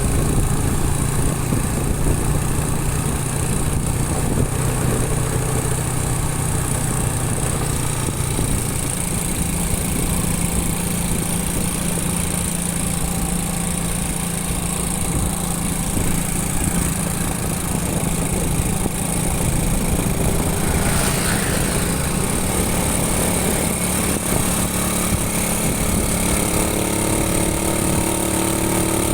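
Motorcycle engine running steadily while riding, under a dense rumble of wind on the microphone; the engine note steps up a little about nine seconds in.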